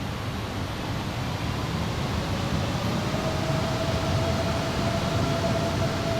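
Jet engines of an Airbus A330-300 running: a steady rush of noise that grows louder, with a whine that comes in about halfway through and holds.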